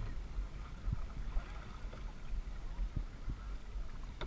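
Kayak on the water: water sloshing and lapping against the hull, with a few scattered soft knocks and a steady low buffeting rumble.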